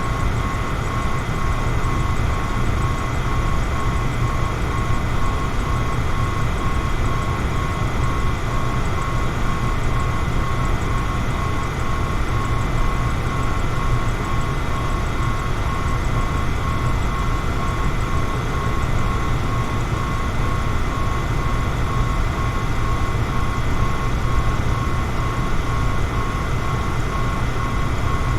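Electric fan running steadily: an even rush of air, heaviest in the low end, with a faint steady whine on top.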